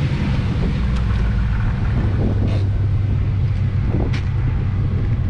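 Ford Mustang on the move, its engine running steadily under a haze of road and wind noise.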